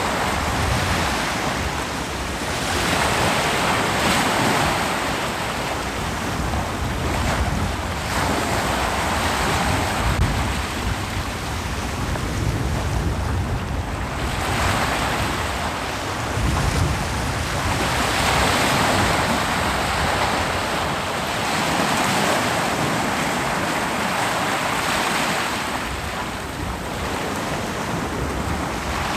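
Ocean surf breaking on a beach: a continuous wash of noise that swells with each incoming wave every few seconds and ebbs between them.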